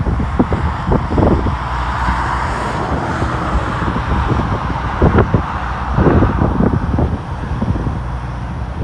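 Wind buffeting the microphone in irregular gusts, a loud low rumble with sudden thumps.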